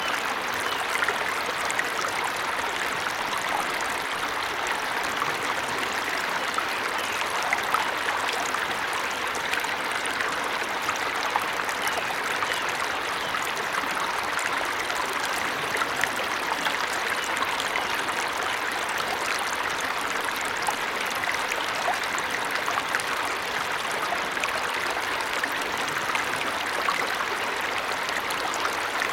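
Waterfall: water falling and splashing steadily, an even rush with fine splashes and no let-up.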